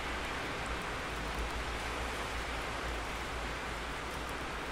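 Steady rain falling, an even hiss with no breaks or sudden sounds.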